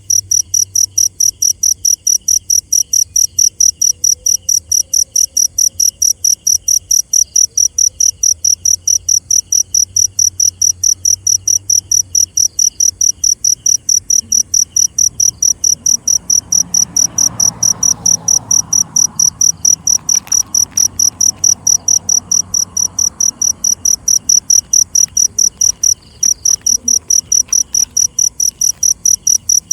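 Cricket chirping loudly in a steady, even rhythm of about three high-pitched chirps a second, with a second, fainter and lower-pitched insect chirping alongside that drops out about halfway through and returns near the end.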